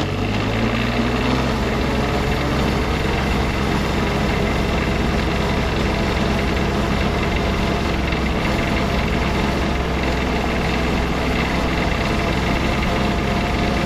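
Small diesel engine of a diesel-swapped Power Wheels ride-on, running steadily at full throttle while driving on the road.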